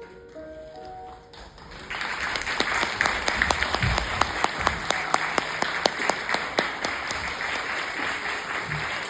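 A few soft, held musical notes, then audience applause breaks out about two seconds in and carries on steadily.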